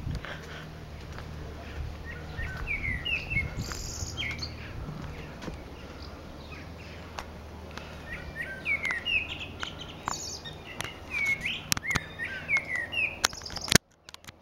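Garden birds singing in short, repeated, sliding chirps, coming in two spells, with a few sharp clicks among them. The sound cuts out briefly near the end.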